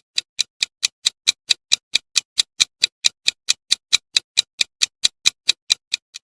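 Steady clock-like ticking, about four to five sharp ticks a second, from a quiz countdown-timer sound effect.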